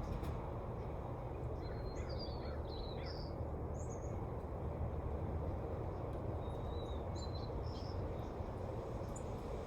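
Steady wind blowing through trees, with birds chirping in two short bouts, about two seconds in and again about seven seconds in.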